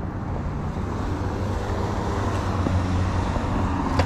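Road traffic: car engines running and tyre noise on the road, slowly growing louder.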